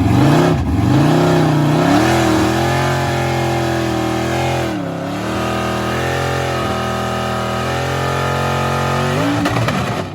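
Big-block V8 engine revving, with its pitch swinging up and down for the first two seconds, then running at a steady high speed. Its speed dips briefly about halfway through and recovers, then drops off near the end.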